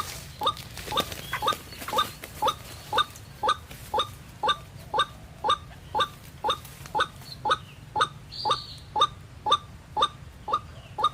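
White-breasted waterhen (ruak-ruak) call: a short rising note repeated steadily, about twice a second.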